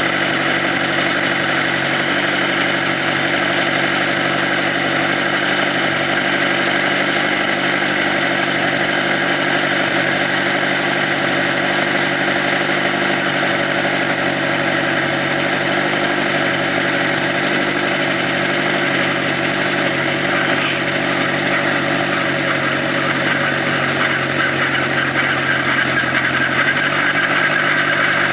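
Robinson R22 helicopter in flight: the steady drone of its piston engine and rotors, holding one even pitch throughout.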